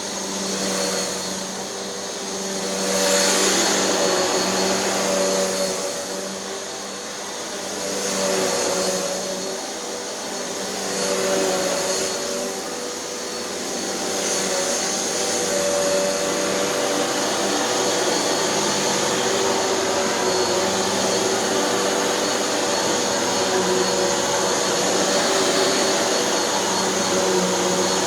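Hoover NanoLite vacuum cleaner running while vacuuming, its motor hum swelling and fading every few seconds, then holding steadier for the second half. The brushroll is driven by a substitute Bissell belt, with its idler pulley hot-glued so the roll turns as one.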